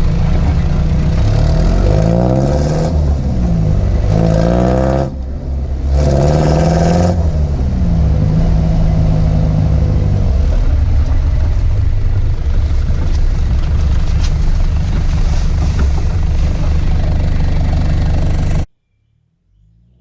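Toyota HiLux 3.0-litre diesel running through a homemade custom exhaust, its note rising and falling with the revs while driving. The level dips briefly about five seconds in, and the sound cuts off abruptly near the end.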